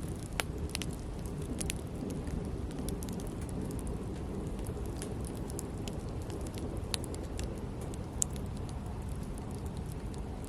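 Wood campfire crackling: scattered sharp pops and snaps, a few louder than the rest, over a steady low rumble.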